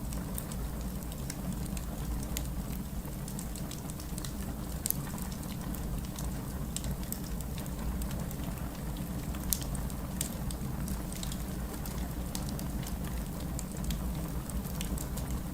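Heavy rain falling steadily with a low rumble, mixed with a wood fire crackling in a fireplace: many small sharp pops, with two louder ones about five and nine seconds in.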